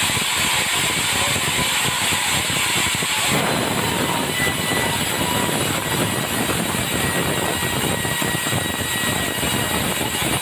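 Engine-driven swing-blade sawmill running and sawing timber, a loud steady mechanical drone with a faint whine; the sound shifts about three seconds in.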